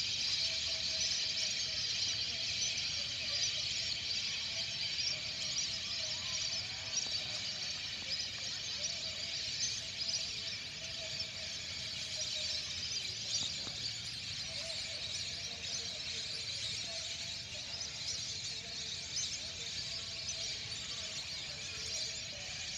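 A large flock of whistling ducks calling, many high whistles and squeaks overlapping in a continuous chatter.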